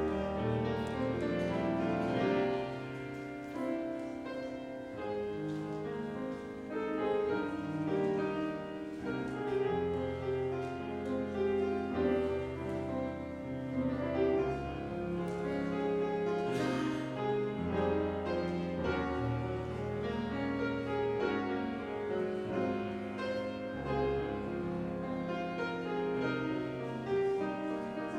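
Instrumental piano music: a classical-style piece with held bass notes under moving chords.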